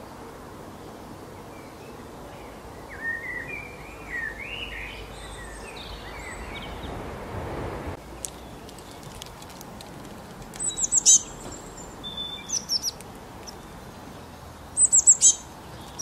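Birds chirping over a steady outdoor background hiss. There are scattered softer chirps in the first half, then three quick runs of rapid, high-pitched chirps in the second half, the loudest sounds.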